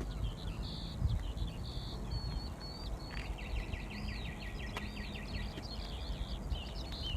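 Several small birds singing outdoors, with varied chirps and whistles and a fast trill of about nine notes a second lasting a couple of seconds, over a steady low rumble.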